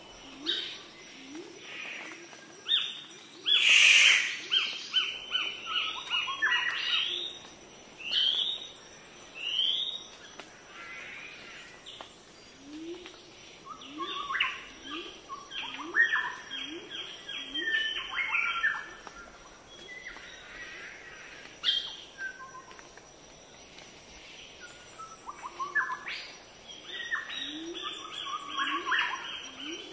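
Birds chirping in quick runs of short notes, over a low rising call repeated about twice a second. A few sharp knocks break in, the loudest about four seconds in.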